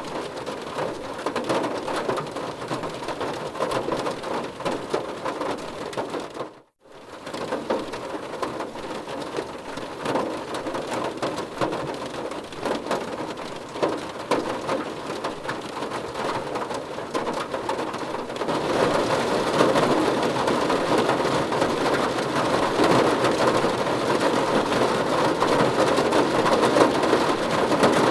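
Steady rain pattering on a surface, many individual drops ticking through the hiss. A few seconds in it cuts out to silence for a moment, and about two-thirds of the way through it turns louder and heavier.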